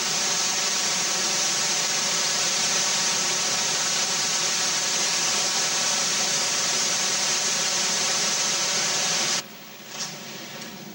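Hurricane-force wind and driving rain: a loud, steady rushing noise that cuts off abruptly near the end.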